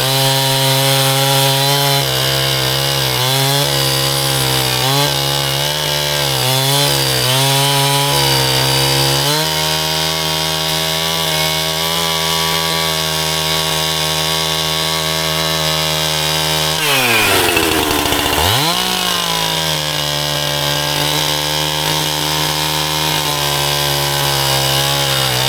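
Two-stroke chainsaw cutting through firewood at high revs, its engine note dipping and recovering repeatedly as the chain bites, then holding steady. About 17 seconds in it drops sharply off the throttle, then revs back up to full speed a second and a half later.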